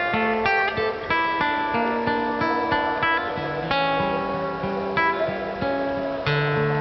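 Acoustic guitar played solo as a song's introduction: a steady run of plucked notes and chords, with a deeper bass note ringing under them in the second half.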